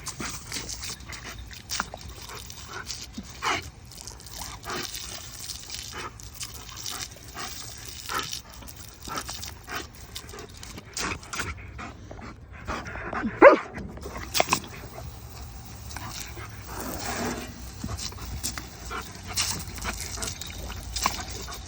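A puppy barking and yipping in short, scattered bursts, with the loudest bark about halfway through.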